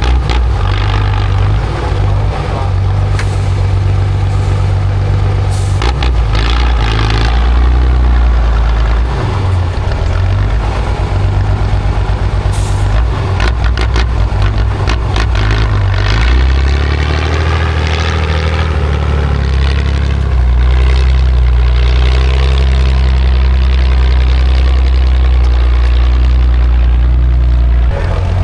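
Heavy off-road trial truck's diesel engine running hard under load, its pitch shifting about halfway through, with several short hissing bursts in the first half.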